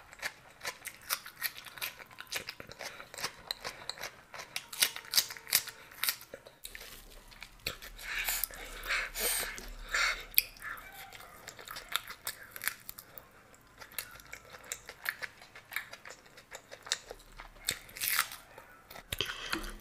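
Close-miked eating: crisp crunching and chewing of fried chops, with rapid crunches at first. About eight seconds in come louder wet tearing and squishing sounds as a curry-soaked chop is pulled apart by hand, followed by more chewing.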